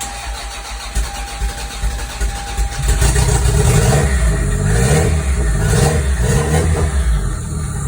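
Toyota 5S-FE 2.2-litre inline-four cranking on the starter for about three seconds, then catching and revving up and down a few times before settling toward idle. The engine has a freshly replaced bearing after developing a rod knock.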